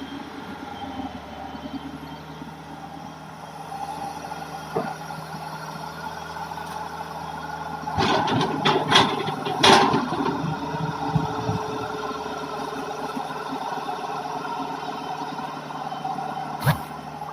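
Hitachi excavator's diesel engine running steadily, with a burst of knocks and clatter about eight seconds in and a single sharp knock near the end.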